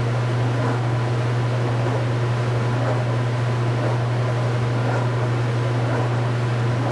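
Speed Queen top-load washing machine running with a steady low motor hum and no agitation rhythm, with faint light ticks now and then.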